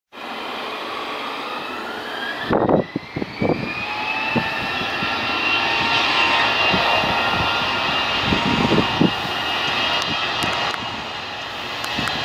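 Jet aircraft engines whining, the whine rising in pitch over the first few seconds and then holding steady over a steady rushing noise, with irregular low thumps about three seconds and nine seconds in.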